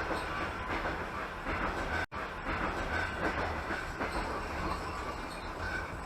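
A passenger train car running along the track: steady rumble of wheels on rails with clickety-clack, with a very short cut-out about two seconds in.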